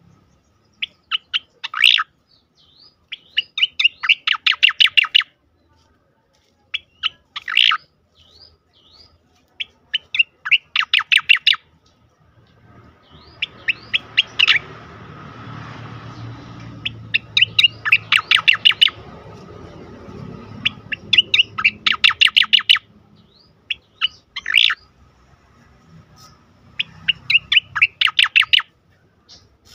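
Sooty-headed bulbul (cucak koreng) singing its rolling 'tembakan' phrases: quick runs of sharp, evenly repeated notes in bursts every couple of seconds. A low background rumble comes in about halfway through.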